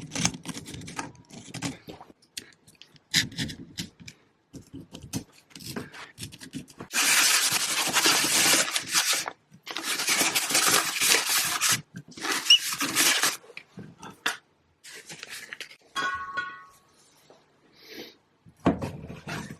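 Hand work on a dismantled starter motor: clicks and clinks of small metal parts, with three long, steady hissing bursts in the middle and a short squeak near the end.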